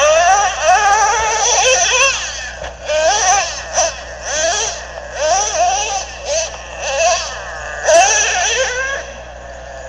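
A young child crying in repeated high-pitched wails, over a steady low electrical hum.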